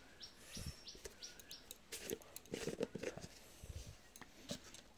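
A bird chirping: a quick run of about five short high notes in the first second and a half. Scattered light clicks and soft knocks follow.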